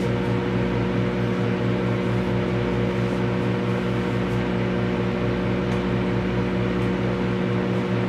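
Microwave oven running: a steady electrical hum from the magnetron with the whir of its cooling fan.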